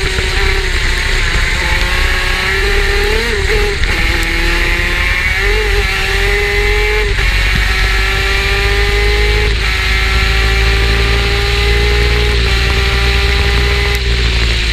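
Superkart's two-stroke engine under power, pulling through the gears: its pitch climbs steadily and drops sharply at each upshift, roughly every two to three seconds. A deep rumble runs underneath.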